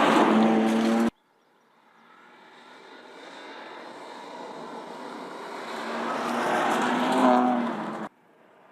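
BMW M2 Competition's twin-turbo straight-six running hard. A first loud pass is cut off suddenly about a second in; then the engine note grows steadily louder, peaks about seven seconds in, and is cut off suddenly again.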